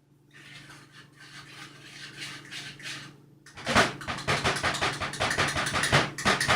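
Kitchen handling noise while baking: a soft rustle for about three seconds, then a loud, rapid run of clicks and clatters, like utensils and plastic containers being worked.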